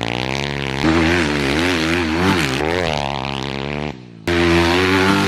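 Dirt bike engine running and revving, its pitch rising and falling with the throttle. The sound breaks off abruptly about four seconds in and comes straight back.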